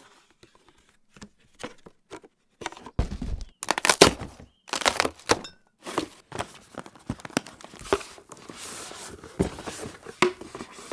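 Packaging being torn and opened by hand: irregular tearing and crinkling, with knocks and thunks of cardboard being handled.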